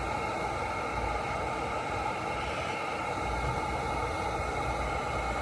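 Heat gun running steadily, its fan motor blowing with a constant hiss and whine while it shrinks heat-shrink tubing over a wire connection.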